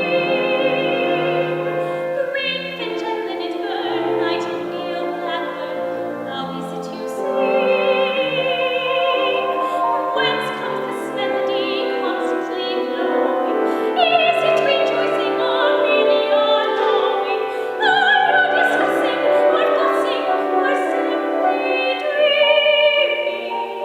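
A woman singing a musical-theatre song in a classical, operatic style with vibrato, over instrumental accompaniment.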